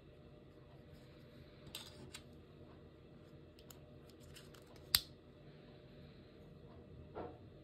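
Scattered light clicks and taps, with one sharp, louder click about five seconds in and a duller knock near the end, over a low steady hum.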